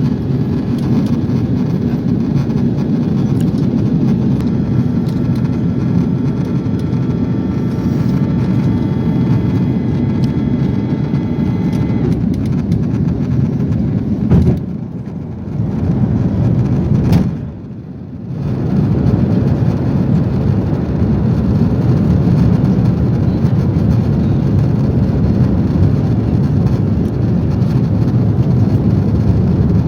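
Steady rumble of an Airbus A340 cabin in flight, engine and airflow noise heard from inside the plane. A faint steady whine sits over it in the first half, and the rumble drops away briefly twice about halfway through.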